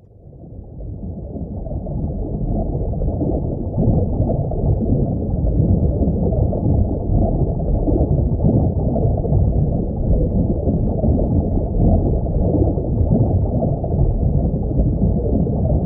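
Steady, muffled low rumble of underwater water noise, with nothing bright or high in it. It fades in over the first two seconds or so, then holds evenly.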